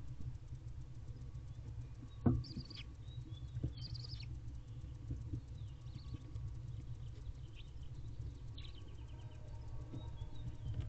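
Barn owl nestlings in a nest box giving short, high, thin chittering calls: twice in the first few seconds and again a little after eight seconds. Faint scratching and shuffling on the box floor, a sharp knock about two seconds in, and a steady low hum underneath.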